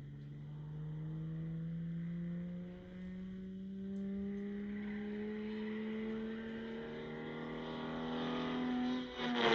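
Aston Martin DB2/4's straight-six engine pulling hard under acceleration, its note climbing steadily in pitch. It eases off briefly about three seconds in, and near the end there is a gear change where the note breaks and drops.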